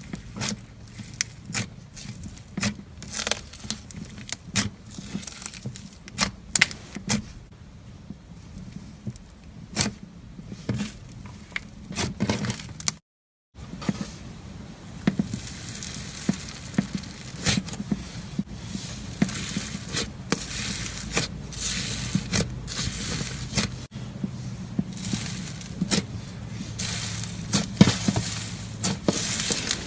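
Irregular run of crisp crackles, crunches and sharp clicks, as of something brittle being crushed and scraped, over a steady low hum. The sound cuts out completely for a moment about thirteen seconds in, then the crackling resumes.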